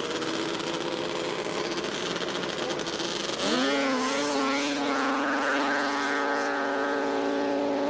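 Two-stroke drag-racing snowmobile engines running steadily, then revving hard about three and a half seconds in, the pitch sweeping up and the sound growing louder, and holding a high, steady full-throttle note: sleds launching down a grass drag strip.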